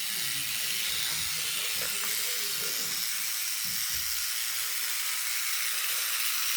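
Small battery-powered motor of a toy train running steadily along its track, with a constant hiss.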